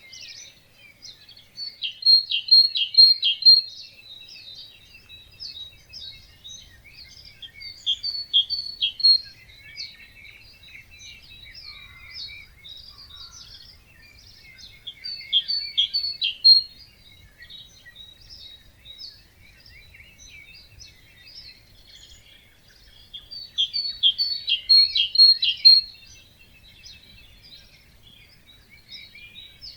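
Wetland dawn chorus of songbirds, with one bird standing out in four loud bursts of quick repeated high notes, each lasting one to three seconds, over softer chirping from other birds.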